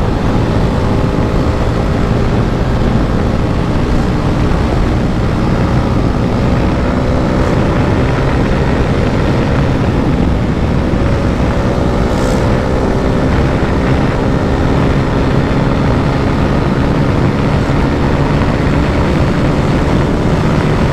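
KTM RC 390's single-cylinder engine running under way at a fairly steady pitch, with wind and road noise rushing over it.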